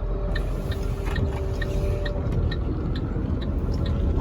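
Truck cab interior with the engine running low and steady, and a turn-signal relay ticking evenly, a little over twice a second.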